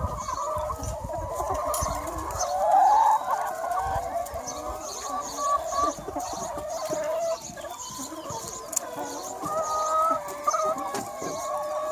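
A large flock of free-range chickens, many hens clucking and calling over one another, with one louder call about three seconds in.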